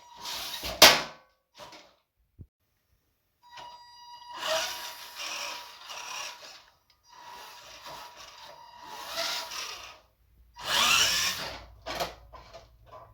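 Workshop tool work: several short bursts of power-tool running and cutting or scraping, broken up by abrupt cuts.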